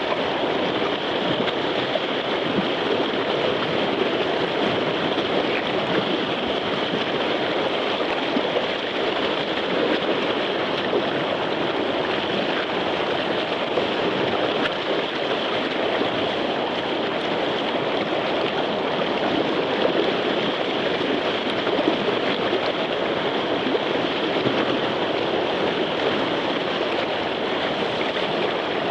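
Whitewater of a river wave rushing steadily, an even roar of moving water with no breaks.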